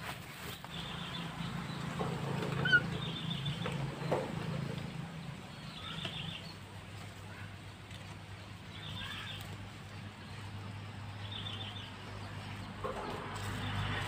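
A bird's short, high trilled chirps, repeated about every two to three seconds, over a low steady hum.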